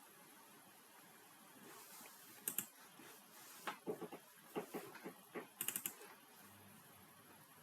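Computer keyboard typing: a run of quiet keystrokes in the middle of the stretch, with two louder clusters of rapid clicks.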